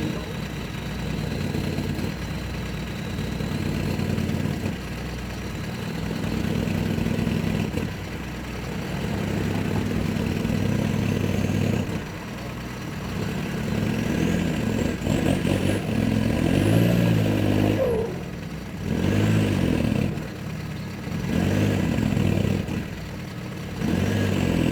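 Mini truck's small engine revving in repeated surges, its pitch climbing and falling several times, as it strains on a pull against a buckthorn whose roots are still holding.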